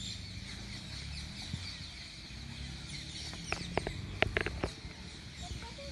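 Outdoor ambience with birds chirping, and a quick run of about six sharp clicks or knocks about three and a half seconds in.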